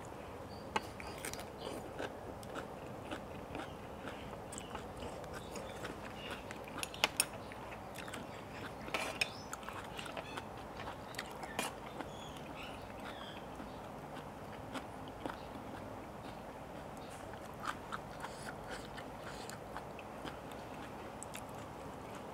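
Close-up mouth sounds of chewing a mouthful of spicy papaya salad wrapped in a raw Chinese cabbage leaf: scattered small crunches and wet clicks, with a few sharper clicks and clinks now and then over a steady low hiss.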